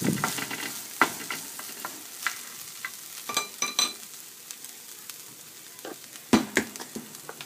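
Chopped lotus root and fried tofu sizzling in hot oil in a rectangular nonstick frying pan, with a spatula stirring and scraping across the pan bottom in short clicks and scrapes. A single louder knock comes about six seconds in.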